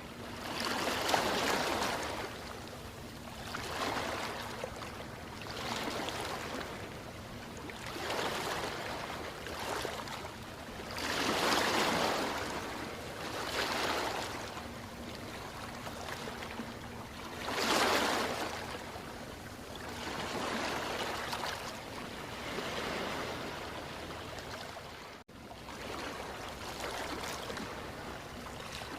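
Ocean waves washing in over and over, a fresh surge of surf every two to four seconds between quieter stretches of hiss. A very brief dropout about three-quarters of the way through.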